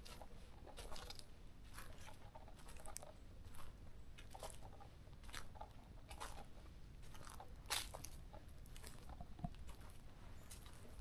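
Footsteps on a forest trail at a steady walking pace, a little more than one step a second.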